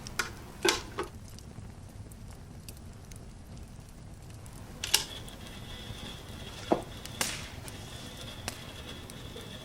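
A handful of sharp, separate knocks and clicks over a low steady rumble, with a faint thin high steady tone through the second half.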